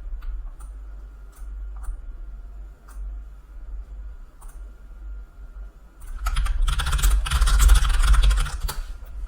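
Typing on a computer keyboard: a few scattered key clicks, then a fast burst of typing starting about six seconds in and lasting about three seconds.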